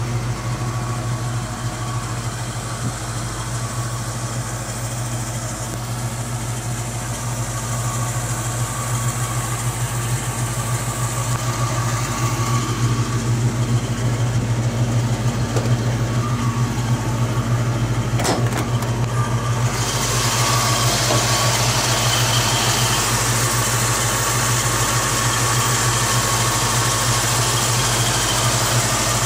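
A 1967 Ford Mustang's 289 V8 idling steadily. A little past halfway there is a brief click, and then the sound grows louder with more hiss.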